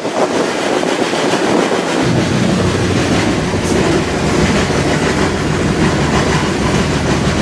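Running noise of a moving freight train heard from on board, with a deeper, heavier rumble setting in about two seconds in.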